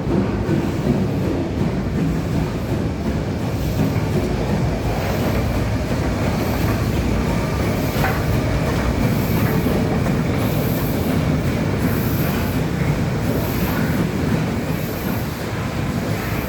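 BR Standard Class 9F 2-10-0 steam locomotive running light at low speed, a steady loud rumble of the engine and its wheels on the rails. From about four seconds in, a faint high sound recurs about once a second.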